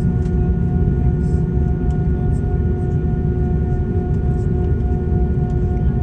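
Airbus A340-600 cabin noise on the ground: a steady low rumble of air systems with a steady high-pitched whine over it, and a few faint ticks.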